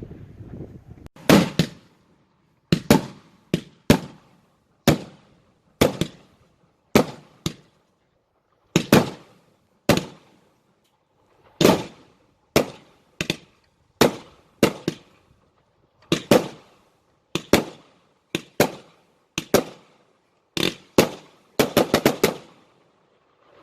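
Consumer fireworks going off in a long string of sharp bangs, about one or two a second, some in quick pairs, with a tight flurry of bangs near the end.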